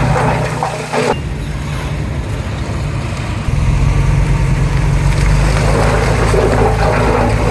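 Komatsu D31P bulldozer's diesel engine running steadily, with an abrupt change in its sound about a second in and a step louder about three and a half seconds in.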